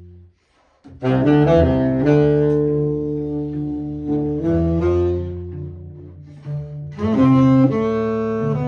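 Music led by a bowed cello holding long, sustained notes, entering about a second in after a brief break and striking a fresh note near the end.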